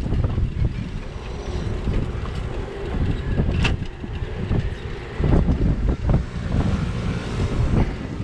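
Wind buffeting a bike-mounted action camera's microphone while riding, a gusty low rumble mixed with road noise, with one sharp click about three and a half seconds in.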